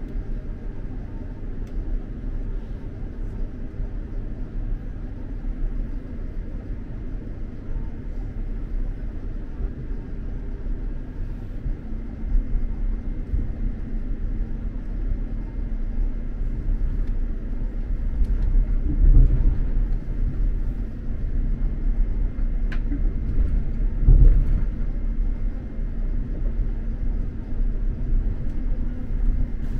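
X2000 high-speed train running, heard from inside the carriage as a steady low rumble of wheels on rails. Two louder bumps come about two-thirds of the way through, a few seconds apart.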